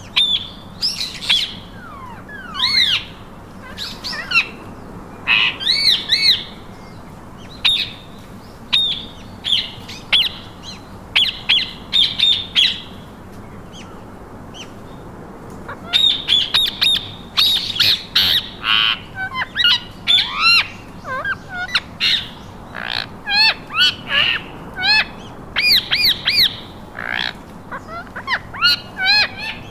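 Pet parakeets calling: many short, repeated calls in clusters, with a lull about halfway through, after which the calling comes thicker and faster.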